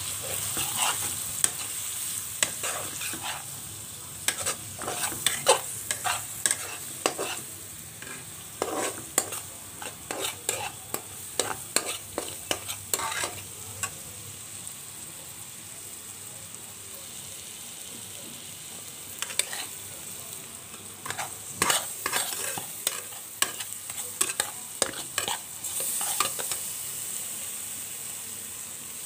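Onions, small shrimp and spice paste frying in oil in a nonstick pan, sizzling steadily while the spices cook in the oil. Runs of a metal spatula scraping and clicking against the pan as it is stirred come and go, with two calmer stretches of plain sizzling, one midway and one near the end.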